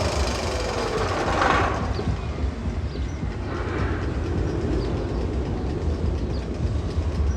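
Steel roller coaster train rumbling along the track, a steady low roar with clattering from the wheels.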